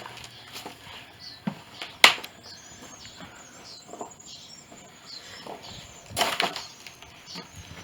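Irregular knocks, creaks and crunches of footsteps moving over a debris-strewn, sagging wooden floor, with one sharp crack about two seconds in and a louder scuffling burst about six seconds in. Faint short high chirps sound in between.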